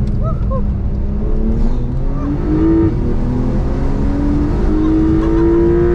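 Porsche 911 GTS (992) twin-turbo flat-six under acceleration: its note climbs steadily, dropping at upshifts about three seconds in and again near five seconds.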